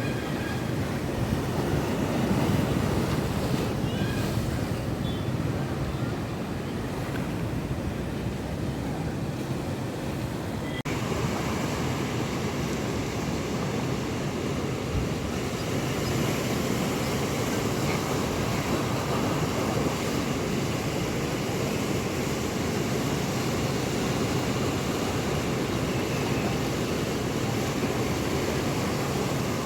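Monsoon sea surf breaking continuously under a strong wind, a steady rushing wash of waves and wind. The sound changes abruptly about eleven seconds in.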